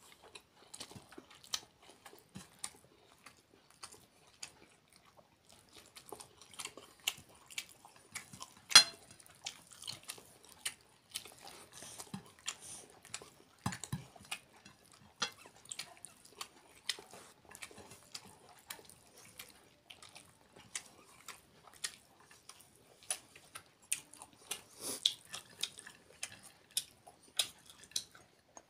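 Close-up eating sounds of a man eating rice and chicken curry by hand: chewing, lip smacks and fingers working rice on a plate, heard as many short, irregular wet clicks, one louder click about nine seconds in.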